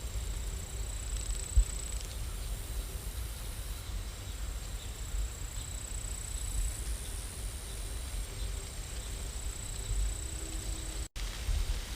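Steady rain ambience: an even hiss of falling rain over a low rumble, cutting out for an instant near the end.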